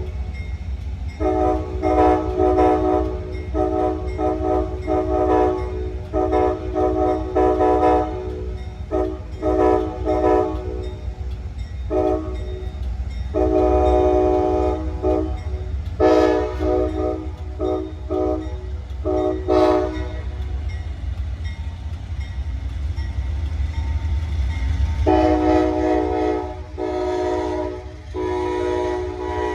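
Locomotive air horn sounding a chord in a long series of long and short blasts, over the low rumble of a passing train. The horn stops about two-thirds of the way through and starts again near the end.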